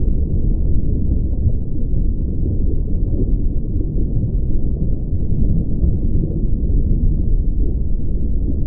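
Heavy rain pouring down, heard as a loud, steady, muffled low rumble with no treble.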